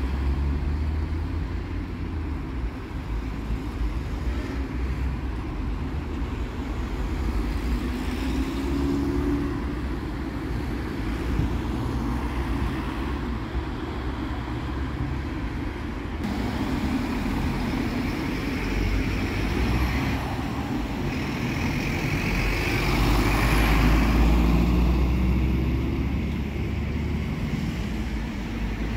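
Road traffic driving past, a steady rumble of engines and tyres that swells as a vehicle passes close about three-quarters of the way through.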